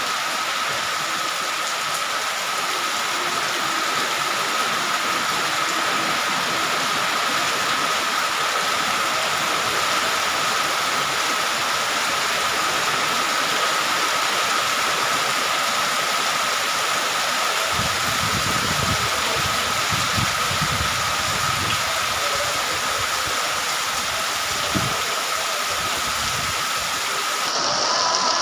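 Heavy rain pouring steadily onto corrugated metal roofs and a paved street, with water running off the eaves. A faint steady whine runs underneath, and a low rumble comes in for a few seconds about eighteen seconds in.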